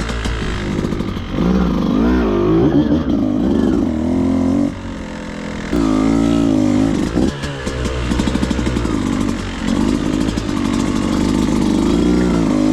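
Beta 200RR single-cylinder two-stroke dirt bike engine revving up and down in repeated bursts. It falls to a lower, quieter run about five seconds in, then revs again, as the throttle and clutch are worked to lift and pivot the bike over rock.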